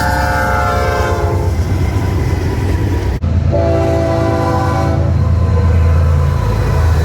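Freight train passing with a steady low rumble, while the locomotive's air horn sounds a chord that fades out about a second and a half in and blows again from about three and a half to five seconds.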